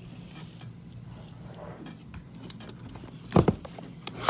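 Low steady hum with faint room noise, then a few sharp clicks and knocks about three seconds in and again near the end.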